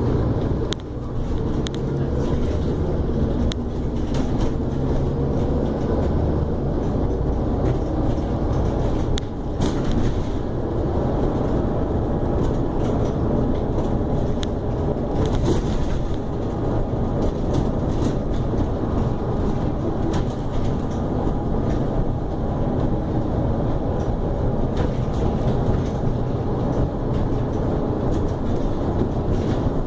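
Scania E400 double-decker bus running, its diesel engine droning steadily under way, with clicks and rattles throughout and a brief drop in level about nine seconds in.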